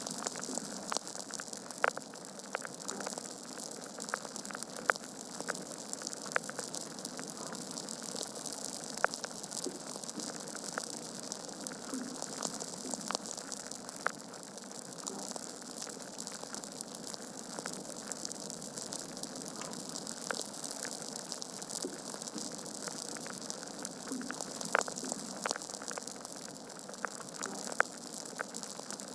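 Wood fire burning in a fireplace: a steady hiss with frequent crackles and sharp pops from the burning logs.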